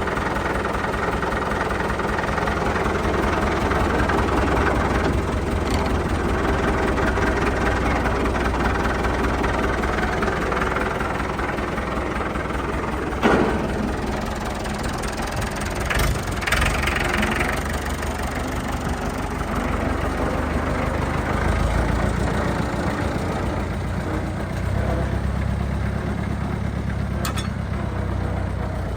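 International 444 tractor engine running steadily at low speed, with a single sharp knock about halfway through and the engine note shifting in the last third.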